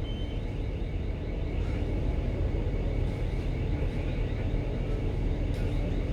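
Steady low rumble on board a ship manoeuvring at slow speed, with a faint steady high whine above it.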